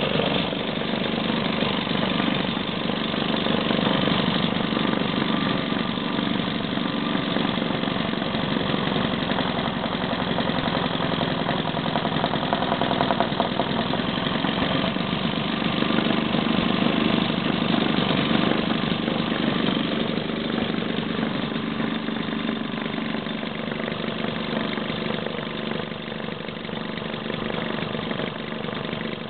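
A 1941 Maytag Model 72 twin-cylinder two-stroke engine running steadily at a fast, even idle.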